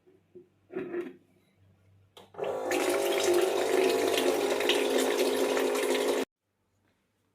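Water running from a tap, starting just after a click about two seconds in and stopping abruptly about six seconds in.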